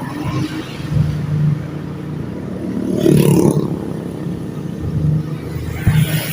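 Motor vehicle engine running steadily on the road, with rushing noise swelling about three seconds in and again near the end.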